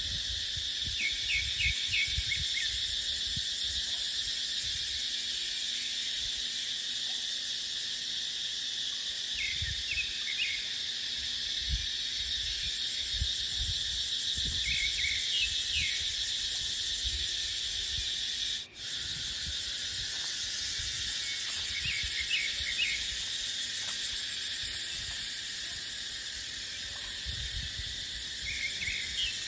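Steady, dense high-pitched chorus of cicadas, with wind gusting on the microphone as a low rumble. Short bursts of chirping calls come every few seconds, and the sound cuts out for a moment about two thirds of the way through.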